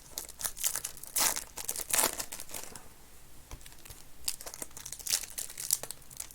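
Plastic and foil trading-card pack wrappers crinkling and tearing as they are handled and opened, in irregular rustling bursts, loudest about a second in and again around four to six seconds.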